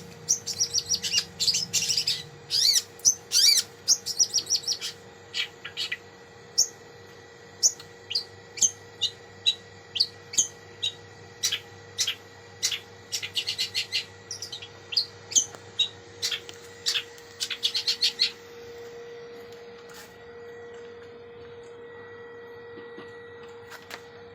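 Long-tailed shrike (cendet) singing a rapid run of sharp chirps and short trills, a mix of its own notes and calls copied from other birds. The song thins to a few scattered notes near the end, over a steady low hum.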